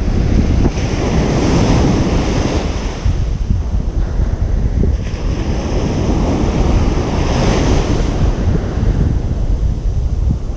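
Ocean surf breaking and washing up a beach, with a constant low rumble of wind buffeting the microphone. The hiss of the wash swells twice, about a second in and again around seven seconds.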